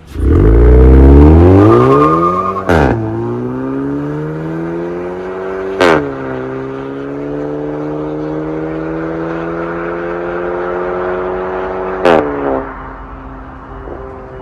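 Hyundai Tucson 1.6T turbo four-cylinder engine through a valved MS-R cat-back exhaust, accelerating hard with the pitch rising. It upshifts three times, with a short sharp crack at each shift, then settles to a lower, steadier drone near the end.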